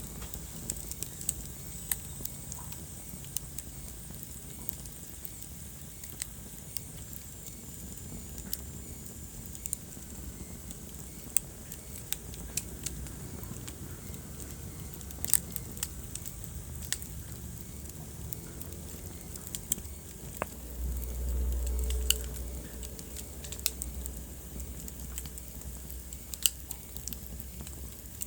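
Wood fire burning in a fireplace: irregular sharp pops and snaps over a steady low rumble of flames. About three quarters of the way through, the low rumble swells louder for a couple of seconds.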